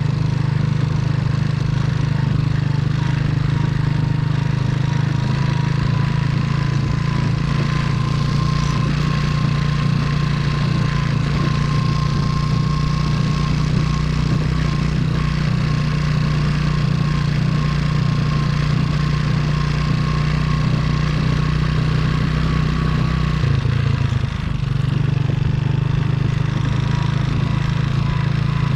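Trail motorcycle engine running at a steady speed, with a short drop in the engine note a little over two-thirds of the way through before it picks up again.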